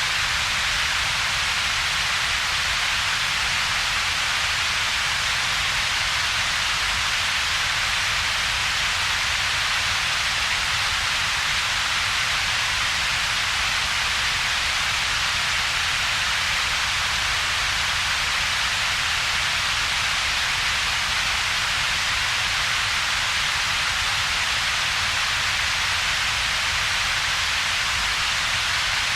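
Synthetic double-peaked noise, steady and unchanging: a strong hiss band centred around a few thousand hertz over a weaker low rumble, with a gap between them.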